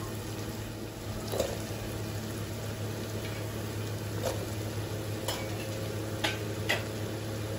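Onion-tomato masala sizzling steadily as it fries in a pressure cooker, with a handful of sharp ticks and taps as chopped green beans and carrots are dropped into the pot.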